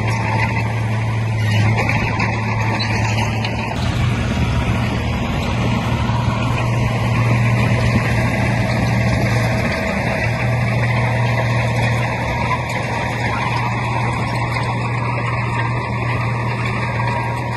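Heavy diesel engine of earthmoving machinery running steadily under load, a constant low hum with mechanical noise over it.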